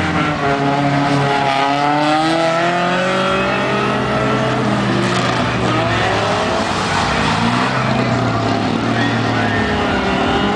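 A Volkswagen Saveiro pickup's engine revving hard, rising and falling in pitch again and again, with tyres squealing as the pickup is spun through tight turns.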